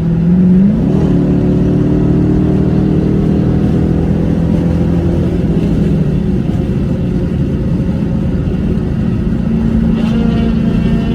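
Car engine revving up about a second in, then held at steady high revs.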